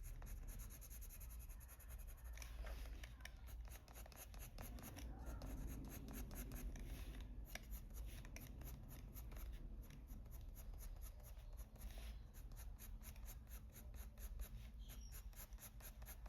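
Colored pencil scratching on paper in quick, repeated back-and-forth shading strokes, with a low steady hum underneath.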